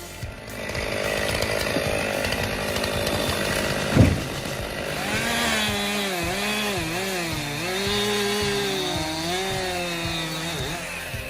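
Chainsaw running at high revs and cutting, its engine pitch wavering up and down under load, with one sharp crack about four seconds in.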